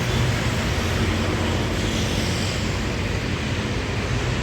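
Railway engineering maintenance vehicle's engine running steadily, a constant low hum with no change in speed.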